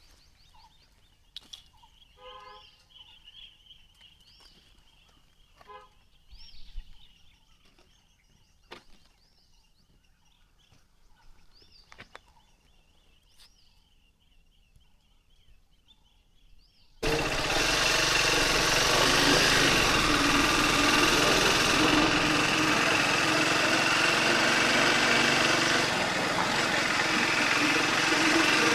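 Faint outdoor quiet with bird calls, a steady high tone and a few clicks. About two-thirds of the way in, the Triumph Speed 400's single-cylinder engine cuts in suddenly, running loud under heavy wind rush.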